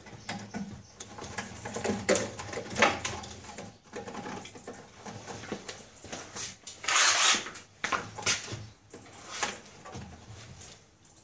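Handling noise as Jubilee clips (worm-drive hose clips) are fitted onto the ends of flexible dust-extraction hose: scattered small clicks, knocks and rustles, with a longer, louder scraping rustle about seven seconds in.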